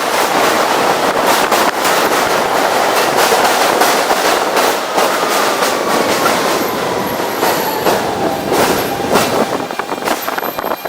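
An F subway train running, heard from its roof: a steady rush of wind and rolling noise with repeated sharp clicks of the wheels over rail joints. Over the middle of the stretch a thin whine slowly falls in pitch.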